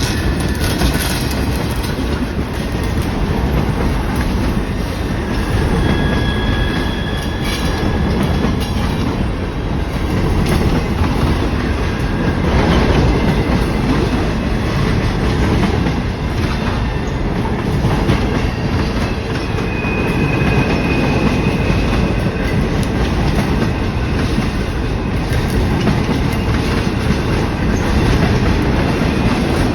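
Railroad cars rolling past close by, wheels clacking over the rail joints in a steady run. There are brief thin wheel squeals about six seconds in and again around twenty seconds.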